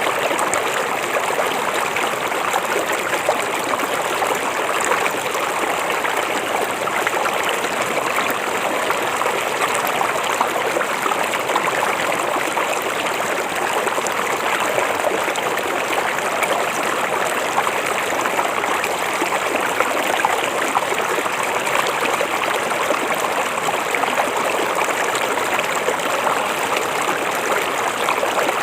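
A river or stream flowing over rocks, a steady babbling and trickling rush of water with no breaks.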